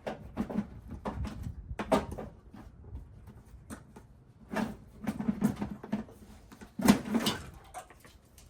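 Irregular knocks, clunks and rattles of parts and hand tools being handled while dismantling a pickup's front end, with the sharpest clunks about two seconds in and about seven seconds in.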